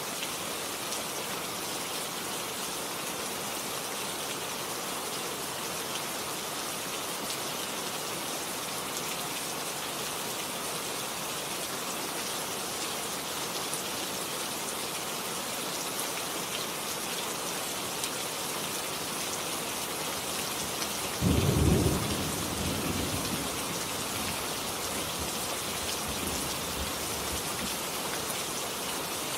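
Steady heavy rain falling. About three-quarters of the way through, a sudden clap of thunder breaks in, loud and low, then rumbles away over a few seconds.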